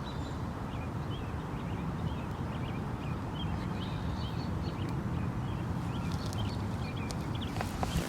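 Small birds chirping repeatedly, many short high calls, over a steady low rumble, with a few sharp clicks near the end.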